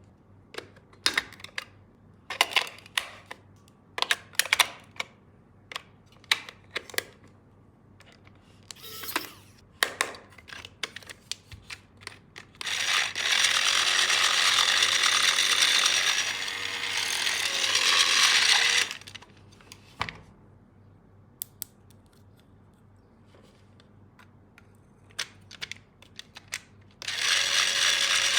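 Sharp plastic clicks and taps, then a battery-powered toy power tool running with a rattling gear whir for about six seconds; after more clicks it starts up again near the end.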